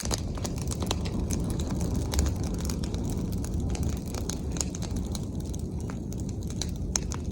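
Bonfire of branches and leaves burning, with many sharp crackles over a steady low rumble.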